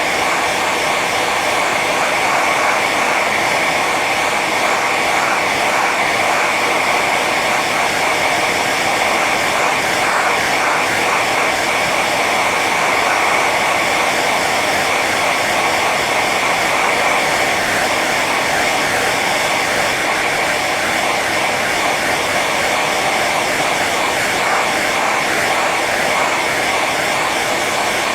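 Hair dryer running steadily on its high setting: a constant whooshing rush of air and motor whine with a strong band around the upper middle, unchanging throughout.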